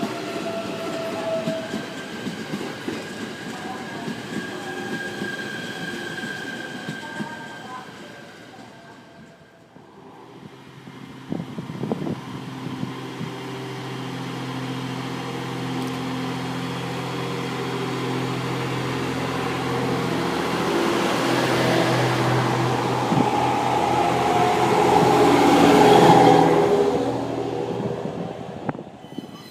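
An E129 series electric train running at a station platform. About ten seconds in, this gives way to a GV-E400 series diesel-electric railcar pair: its diesel generator drones steadily, and electric motor whines rise and fall as it gets louder, pulls past and fades.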